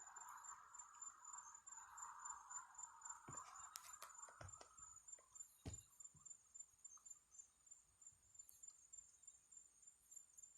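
Faint, steady chirping of night insects such as crickets, a rapid high pulsing trill, with a fainter hum that fades out about halfway through and a few soft clicks.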